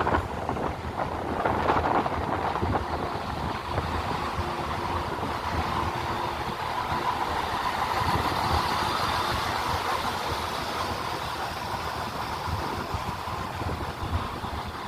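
Southern Class 171 Turbostar diesel multiple unit idling at the platform, its underfloor diesel engines running steadily with a low throb.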